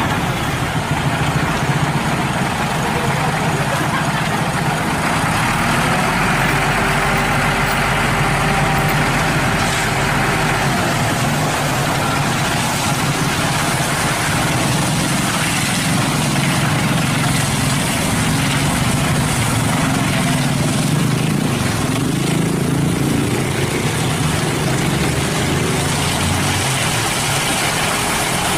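Hino cement mixer truck's diesel engine running steadily.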